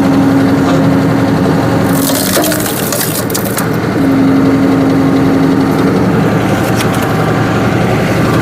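Tractor-driven hydraulic log splitter forcing its wedge through a large knotty log: the tractor engine runs under a steady whine from the hydraulics under load, and the wood cracks and splinters as it gives way about two seconds in. The whine comes back for a couple of seconds, followed by a few more sharp cracks near the end.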